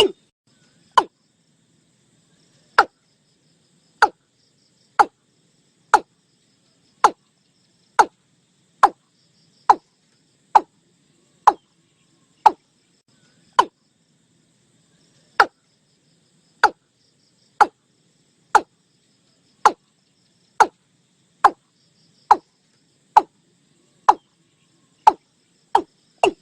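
Watercock calling: a series of short notes, each dropping in pitch, about one a second with a brief pause midway, quickening again at the very end.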